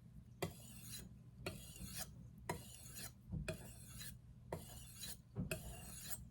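Chef's knife blade drawn in repeated strokes across an Arkansas sharpening stone, a rasping hiss about twice a second with brief pauses between strokes, with a steady low hum underneath. This is the finer stone stage, refining the edge at roughly 17 degrees after heavy grinding on a diamond plate.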